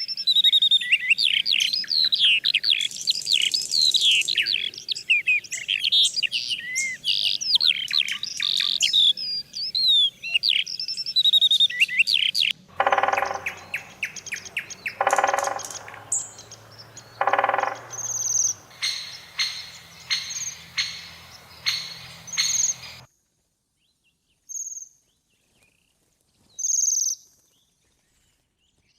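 Birds singing: a dense chorus of rapid high chirps and trills. About halfway through the sound changes abruptly to three lower, harsher calls about two seconds apart, then a quick run of rapid clicking notes. It ends in near silence broken by a few short high chirps.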